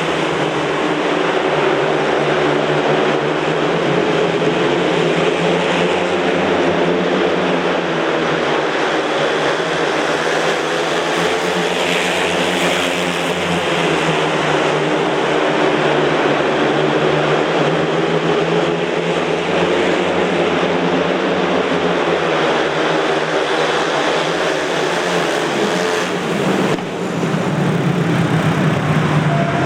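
Several speedway motorcycles racing, their 500 cc single-cylinder engines running at high revs together, pitch rising and falling as they go around the track. The sound dips briefly near the end.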